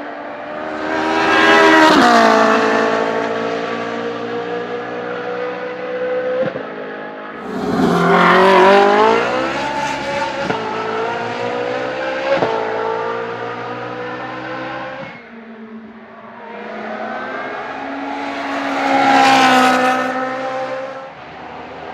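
Ferrari 458 Challenge Evolution race car's V8 engine at speed, its pitch rising and falling, loudest in three swells: near the start, about eight seconds in, and near the end.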